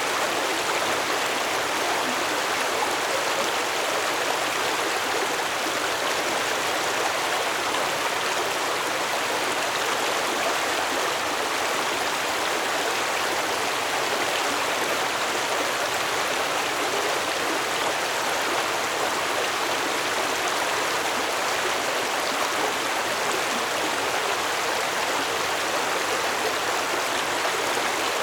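Stream water flowing and burbling over rocks, a steady even rush of water.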